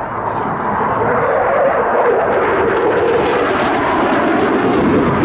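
Eurofighter Typhoon's twin EJ200 jet engines at high power on a fast low pass at just below 700 mph. The noise swells over the first second, stays loud, and carries a tone that falls slowly in pitch as the jet goes by.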